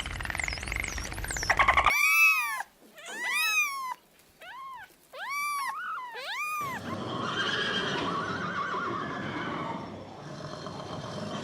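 A sequence of animal calls: about six short calls, each rising then falling in pitch, followed by a rougher, noisier call.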